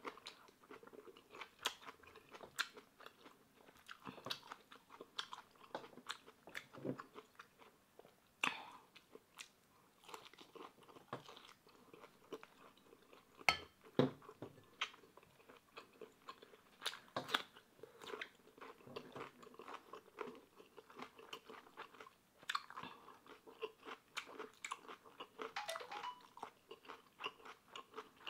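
A person chewing and crunching a meal of fried pork, Chapagetti noodles and kimchi close to the microphone: irregular crunches and mouth clicks, with a louder crunch about halfway through.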